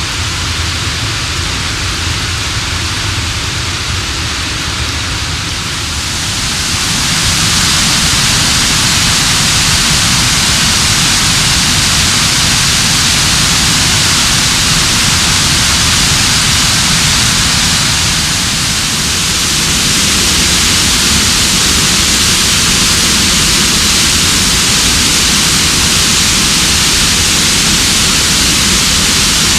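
Mountain waterfall: a creek tumbling down steep rocks, giving a loud, steady rush of water. It grows louder and hissier about seven seconds in.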